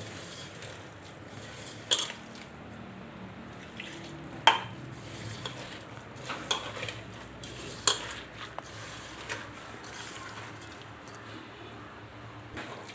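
Onion pakodi batter of gram flour and rice flour being mixed in a bowl with water, a soft wet stirring sound with about six sharp clinks against the bowl, the loudest about four and a half seconds in.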